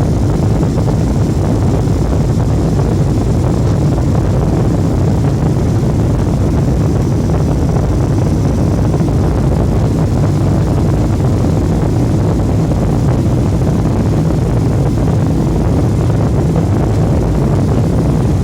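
Jet airliner's engines and rushing air as a steady low rumble, heard from inside the cabin during the climb after takeoff.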